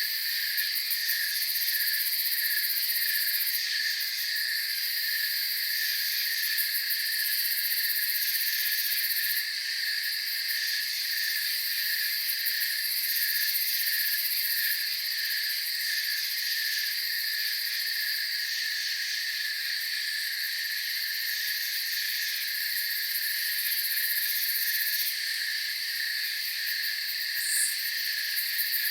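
Night-time chorus of crickets and other insects: a steady high trill, a lower chirping that pulses regularly, and a very high buzz that switches on and off every few seconds. A single short high chirp near the end.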